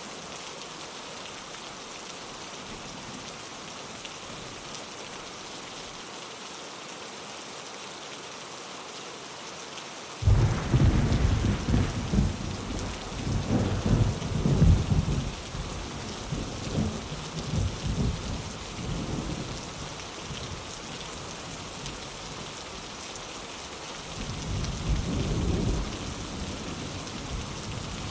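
Steady rain on a window, with a sudden crack of thunder about ten seconds in that rolls on in waves for several seconds, then a second, softer roll of thunder near the end.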